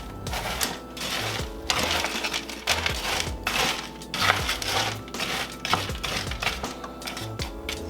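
Chicken stir fry sizzling and crackling in a hot skillet, a dense irregular crackle that swells and fades.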